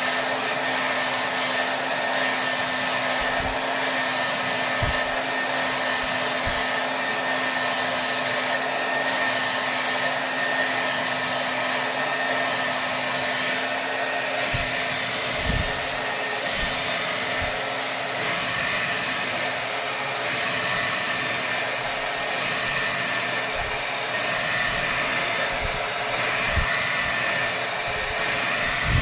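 Hair dryer blowing at full power: a steady, even rush of air with a faint motor hum.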